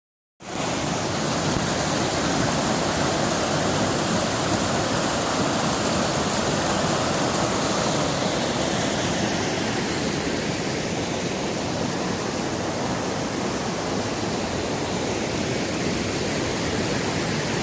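The Kali Gandaki river in flood: fast water rushing steadily, starting about half a second in.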